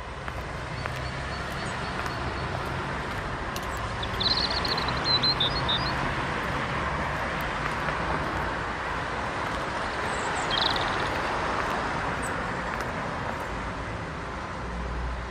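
Outdoor street ambience: a steady hiss and rumble of distant traffic, with a bird chirping in short runs about four seconds in and again about ten seconds in.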